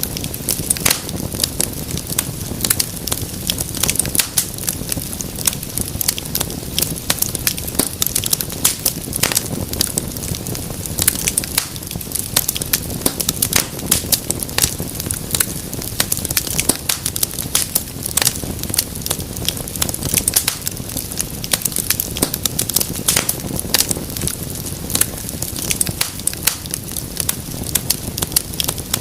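Wood fire burning, with dense irregular crackles and pops over a steady low rumble of flames.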